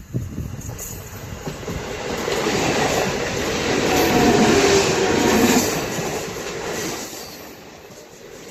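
Indian Railways express train passing at speed: wheel-on-rail noise that builds to its loudest about four to five seconds in, then fades away.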